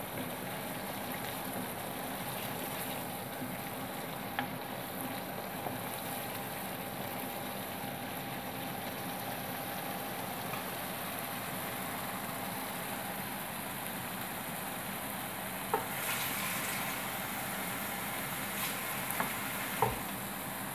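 Onion-and-spice masala paste sizzling steadily as it fries in oil in a non-stick frying pan, with a few sharp clicks of a wooden spatula against the pan, mostly near the end.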